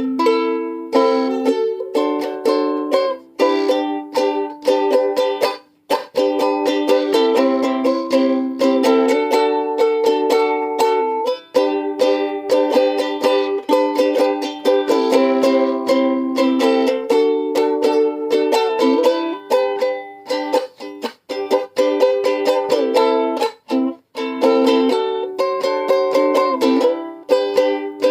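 Ukulele strummed in chords, a busy run of strums with the chord changing every second or two and no low notes. The playing stops briefly about six seconds in and again near the end.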